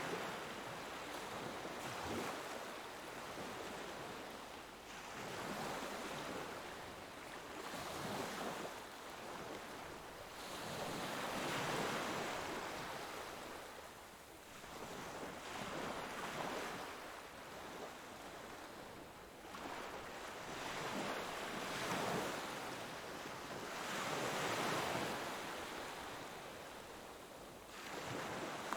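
Ocean waves breaking and washing on a shore, a hiss of surf swelling and fading every few seconds.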